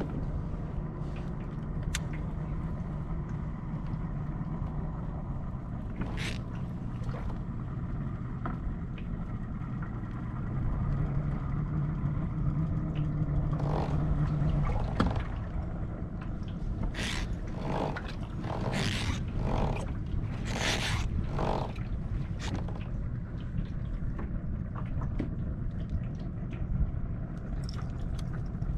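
Fishing kayak out on the lake: a steady low rumble of water and hull noise. Through the middle comes a run of short scrapes and splashes, several in quick succession.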